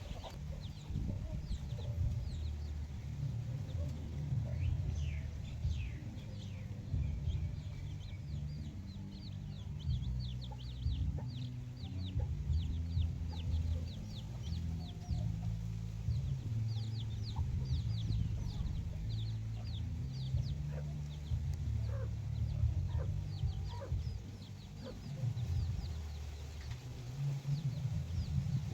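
A flock of free-range chickens clucking, with many short, high chirps coming in quick runs. Under it runs a steady low rumble.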